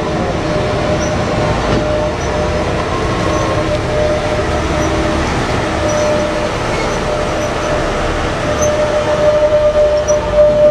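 A large vehicle running steadily, a loud rumble carrying a thin, steady high whine, and growing rougher and more uneven in level near the end.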